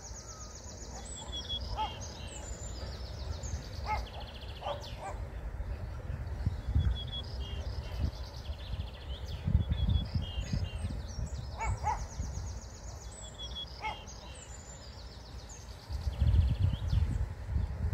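Songbirds singing high, repeated trilled phrases and chirps, with a few short lower calls between them. Wind rumbles on the microphone in gusts, strongest near the end.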